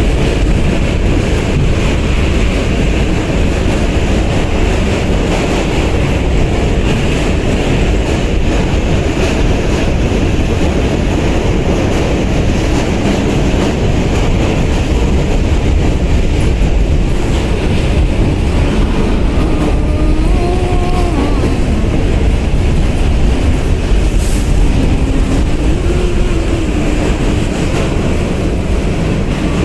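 New York City subway D train heard from inside the car while running at speed: a loud, steady rumble and rattle of wheels on track. Faint wavering tones rise and fall over it in the second half.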